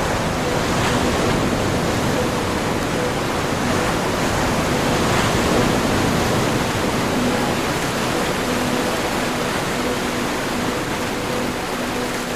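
Ocean surf washing steadily, a continuous rush of breaking waves that swells slightly about a second in and again near the middle. A faint low steady hum runs underneath.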